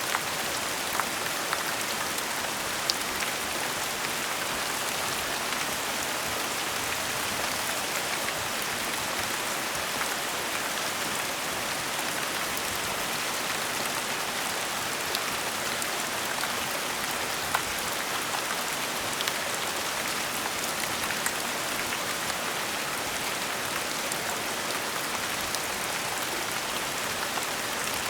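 Steady gentle rain falling on a surface, an even hiss with scattered individual drops ticking through it.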